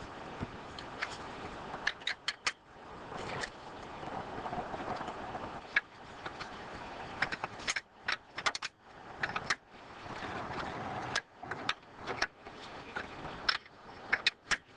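Metal clicks and clinks of hand tools at the brake line fittings on a master cylinder, coming in small clusters over a steady hiss.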